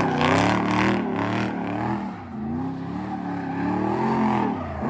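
A car engine revving hard, its pitch rising and falling several times.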